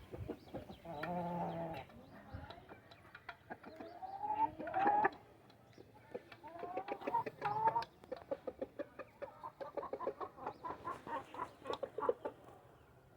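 Domestic poultry calling: a held call about a second in, rising calls around four and seven seconds in, then a rapid run of short, clucking calls until near the end.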